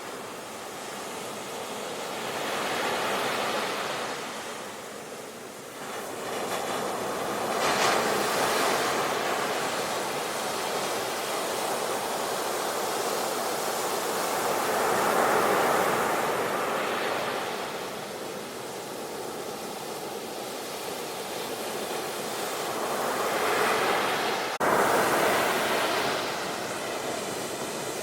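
Sea waves breaking and washing ashore in slow swells, rising and falling several times, with a single sharp click and a sudden jump in level a little past three quarters of the way through.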